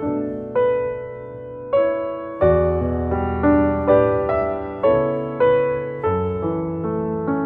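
Background piano music: a slow, gentle melody of single struck notes over sustained bass notes.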